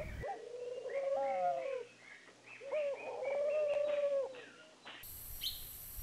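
Bird calls: two long calls, each rising and falling in pitch, with shorter higher notes among them. After a cut, one brief high chirp comes near the end.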